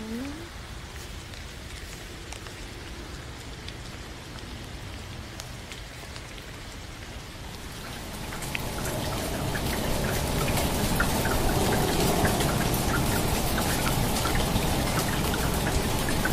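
Steady rain, with many small drop ticks. About eight seconds in it becomes louder and denser: rain falling onto the water of a swimming pool.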